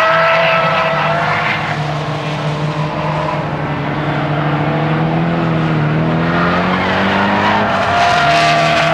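Nissan S15 Silvia's four-cylinder engine pulling hard on a circuit lap. Its note climbs slowly for several seconds, dips about three-quarters of the way through, then picks up again.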